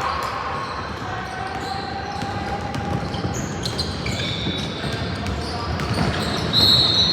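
Indoor gym game sounds: a ball bouncing on a hard court amid spectators' chatter, with a short high squeak near the end.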